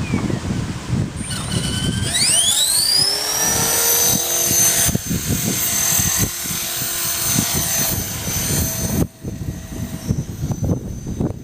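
A motor winding up with a rising whine, then running steadily at a high pitch over a low rumble; its level drops sharply near the end.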